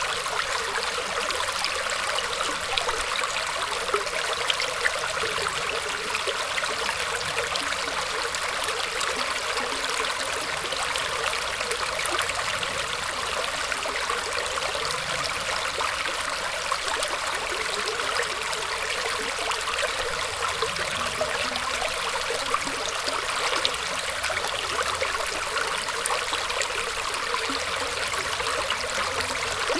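Water flowing and trickling through tree roots: a steady rush of running water with fine splashing that keeps an even level throughout.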